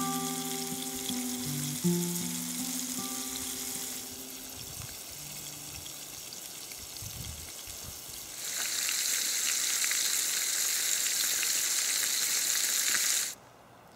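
Breaded fish fillets frying in oil in a pan over a campfire: a steady sizzle that gets louder about eight seconds in and cuts off suddenly just before the end. A few held musical notes sound over the first few seconds.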